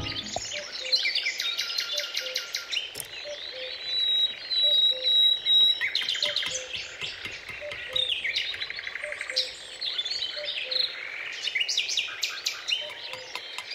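Several birds chirping and trilling at once, with quick high trills and short calls overlapping, and a soft low note repeating about twice a second underneath.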